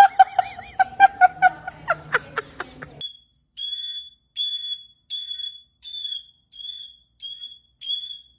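A few seconds of wavering, high vocal sound with sharp clicks, then from about three seconds in a short, high-pitched beep of one steady pitch repeating evenly, about one and a half times a second, like an electronic alarm.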